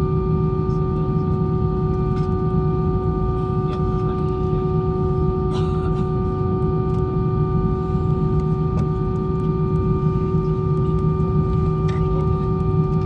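Airbus A320 cabin noise with the engines running: a steady low rumble under a constant hum and several steady whining tones, with a few faint clicks.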